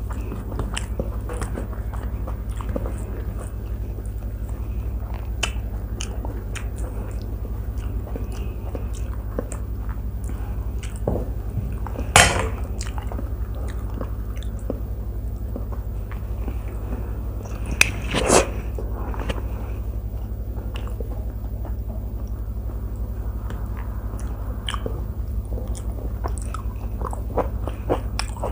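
Close-miked chewing as a person eats rice and vegetable curries by hand from a steel plate: soft mouth sounds and many small clicks, with two louder crunches about twelve and eighteen seconds in, over a steady low hum.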